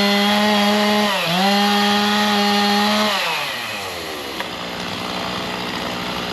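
Chainsaw held at high revs, dipping briefly about a second in, then throttled back a little after halfway so the pitch falls and it runs on quieter.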